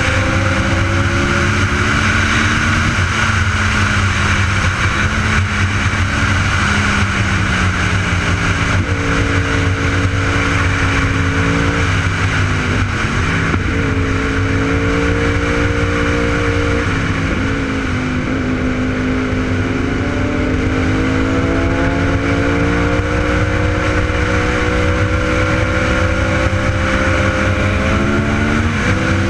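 Sport motorcycle engine running under way, its pitch climbing and easing off with the throttle and dropping at gear changes about twelve and seventeen seconds in, over a steady rush of wind noise.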